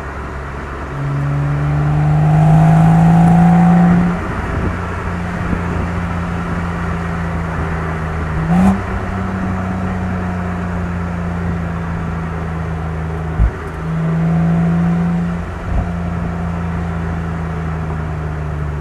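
BMW M135i's turbocharged inline-six with M Performance exhaust, driving along: it pulls harder and louder twice, once early on for about three seconds and again near the end, and holds a steady drone between. A quick rise in revs comes about halfway through, and two sharp knocks come near the end, over steady road noise.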